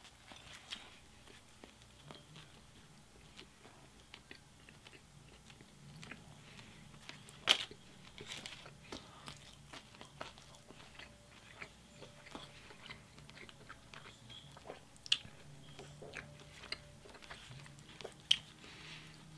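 Close-up chewing of a Wendy's Baconator bacon cheeseburger: soft, irregular mouth clicks and smacks from biting and chewing. The sharpest click comes about seven and a half seconds in.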